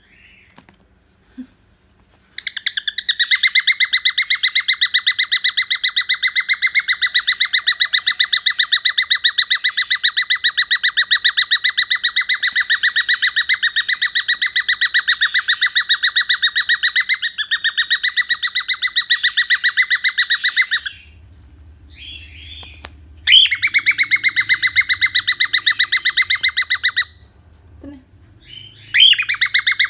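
Loud bird trill of very rapid, even chirps in one long unbroken run of nearly twenty seconds, followed by two shorter runs of the same trill.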